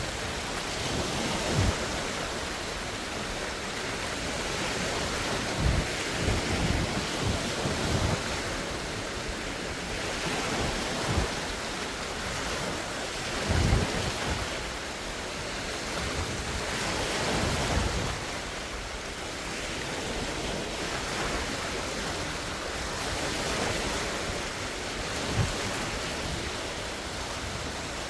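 Large wind-driven lake waves breaking and washing against the shore, with repeated low thumps of the waves and wind buffeting the microphone.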